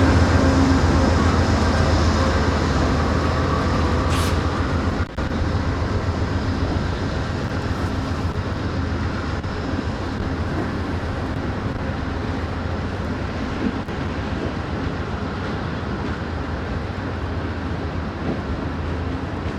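Amtrak Empire Builder passenger train rolling by with a steady rumble of wheels on rail, slowly fading as it moves away.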